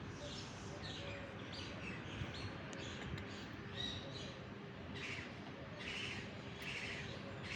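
Birds chirping in repeated short calls, with harsher calls coming about once a second in the second half, over a steady low background noise.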